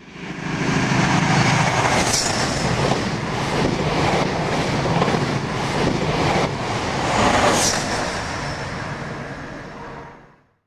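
A train running along the track, with rail clicks and two brief high-pitched wheel squeals, one about two seconds in and another about five seconds later. It fades in at the start and fades out shortly before the end.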